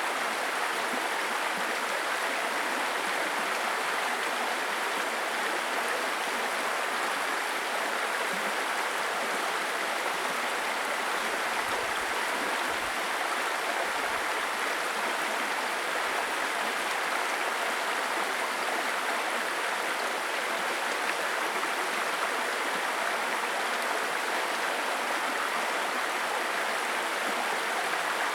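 Small stream babbling over rocks: a steady, even rush of flowing water.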